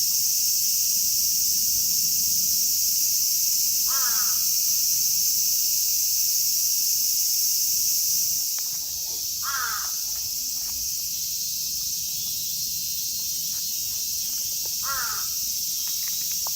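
A chorus of Japanese cicadas keeps up a steady, high, sizzling drone that eases a little about halfway through. A crow calls three times over it, single harsh caws about five seconds apart.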